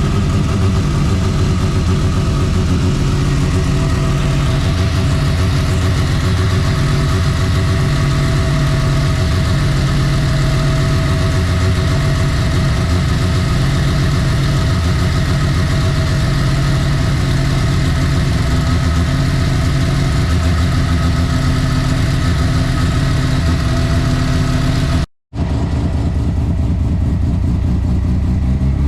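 Semi-peripheral-ported rotary engine of a big-turbo Mazda RX-7 FD running steadily at idle. The sound breaks off for an instant about 25 seconds in.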